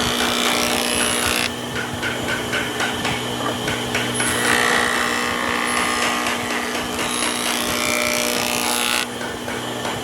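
Power tools working wood. The sound changes abruptly about a second and a half in, again around four and a half seconds, and once more near the end.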